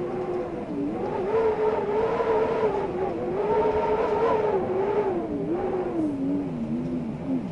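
Wind howling: a wavering moaning tone that slowly rises and falls in pitch over a steady rushing noise, sinking lower near the end.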